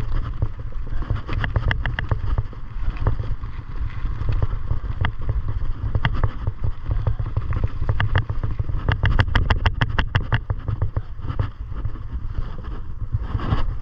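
Wind buffeting the microphone on a moving bicycle, with irregular clicks and rattles that come thickest around the middle.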